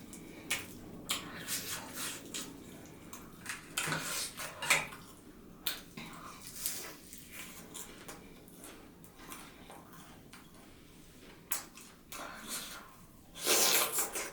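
Close-miked eating sounds: irregular mouth and chewing clicks with light clinks of dishes or cutlery, and a louder, longer noisy sound near the end.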